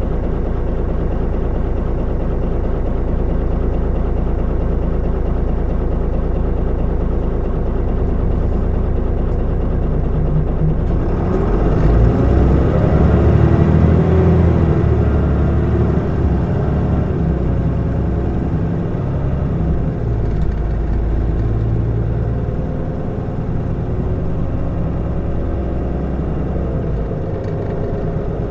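Mitsubishi Fuso Aerostar city bus (QKG-MP35FP) heard from inside the cabin, its diesel engine idling steadily. About eleven seconds in the bus pulls away, and the engine grows louder and rises and falls in pitch as it accelerates through the gears. It then runs on more steadily.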